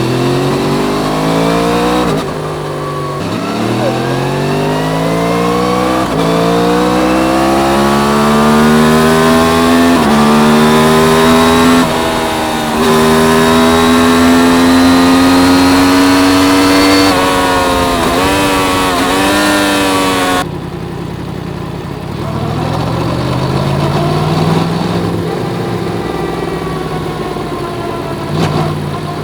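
Yamaha MT-10's crossplane inline-four under hard acceleration, revs climbing through several upshifts in the first twelve seconds, each dropping the pitch, then holding a steady high cruise. From about 17 s the revs fall with short blips as it slows and downshifts. From about 20 s it runs quieter, with a gentler pull later on.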